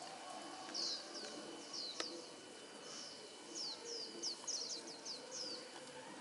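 Small bird chirping: a run of quick, high chirps, each sliding downward, coming thicker and faster in the second half. A single sharp click about two seconds in.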